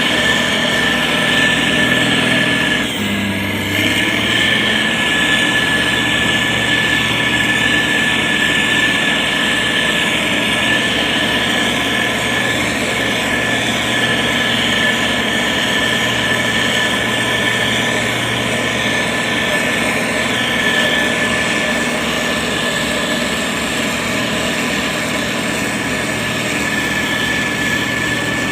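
Motor grader's diesel engine running steadily while spreading gravel, with a steady high whine over the engine noise and a brief dip about three seconds in.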